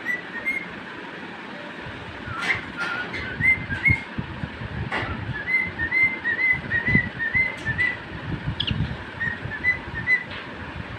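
Cockatiel whistling a string of short rising notes, about two or three a second, with a few sharp clicks and a low rumbling noise underneath.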